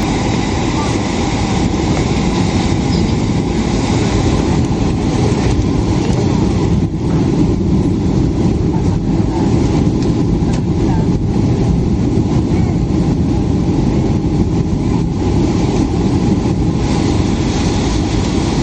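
Jet airliner noise as heard on board: a steady, loud rumble with no clear change in pitch.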